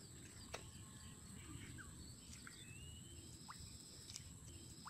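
Faint outdoor ambience: a few short, scattered bird chirps over a low, steady rumble, with a couple of brief clicks.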